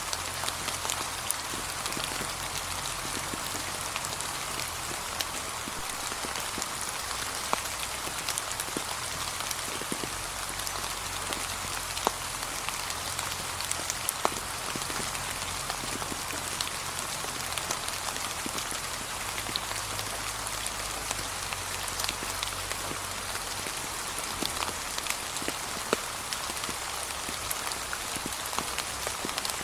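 Steady gentle rain falling on a leaf-covered path, with many separate drops ticking sharply through an even patter.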